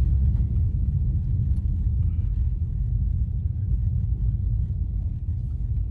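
Steady low rumble of an all-wheel-drive car's road and engine noise, heard from inside the cabin while driving on a snow-covered road.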